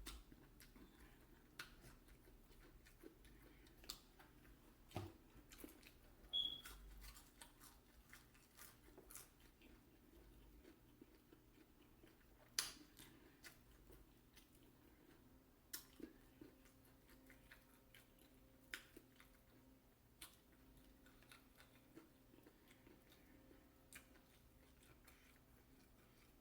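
Faint chewing and biting of food, with scattered short crunches and mouth clicks, the sharpest about six seconds in and near the middle.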